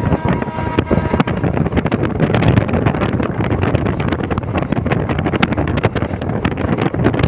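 Passenger train running on the line, a loud steady rumble with irregular clatter of the wheels on the track, and wind buffeting the microphone.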